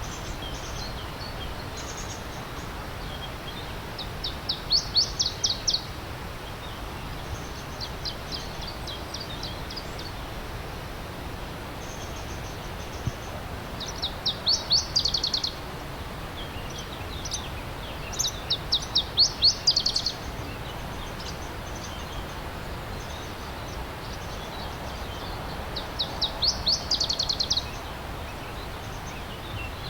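A songbird sings short, fast phrases of rapidly repeated high notes, five times, over the steady rush of a flowing stream.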